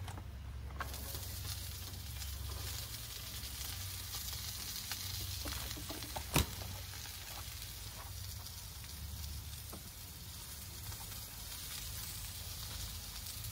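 Chicken thighs and stir-fry vegetables sizzling in peanut oil on a Blackstone propane griddle; the sizzle comes up just under a second in and holds steady. A single sharp click about six seconds in.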